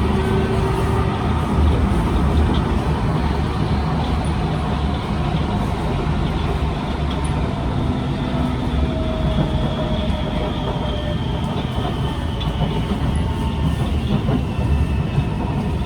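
Inside a Kawasaki C151 MRT train running: a steady rumble of wheels on track, with faint motor tones sliding slowly down in pitch in the second half.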